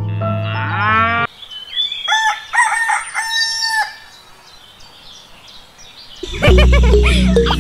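Background music with a rising slide cuts off about a second in, followed by a rooster crowing once, ending on a long held note. Loud background music starts again near the end.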